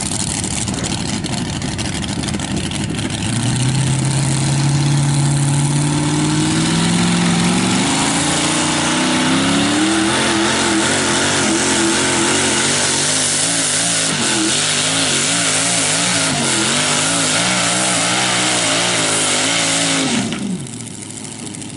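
V8 engine of a pulling tractor running loud and revving up. Its pitch climbs steadily for several seconds, then holds at high revs with a wavering, pulsing note. Its revs drop off sharply near the end.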